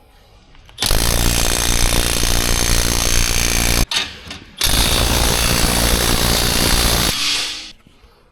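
A power tool run hard in two long bursts of about three seconds each, with a brief pause between, during work on a car's exhaust system.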